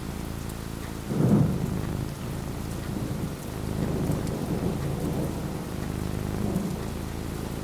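Thunderstorm: steady falling rain with a thunderclap about a second in, followed by a long low rolling rumble of thunder.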